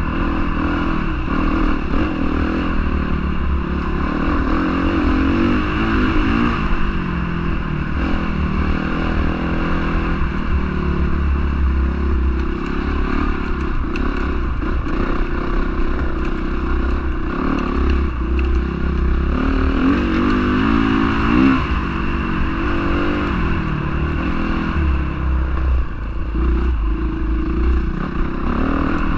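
Honda CRF450R motocross bike's single-cylinder four-stroke engine running hard under throttle, its pitch repeatedly climbing and falling as it revs up and backs off.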